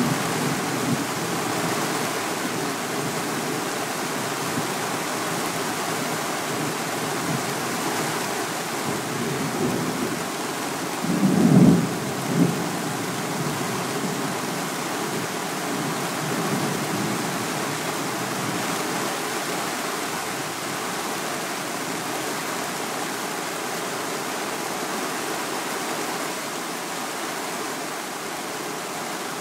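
Steady heavy rain during a thunderstorm, with a low rumble of thunder fading in the opening seconds and another short, louder thunder rumble about eleven seconds in.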